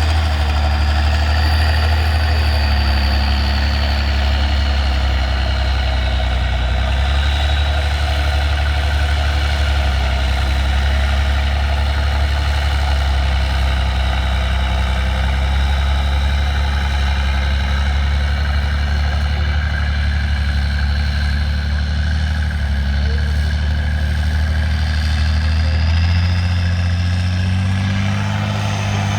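Heavy truck engine running steadily at low revs, its pitch drifting slowly and climbing a little near the end.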